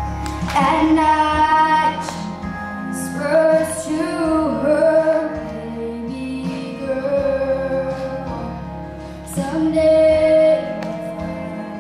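A female voice singing long, sliding notes over backing music with a steady bass.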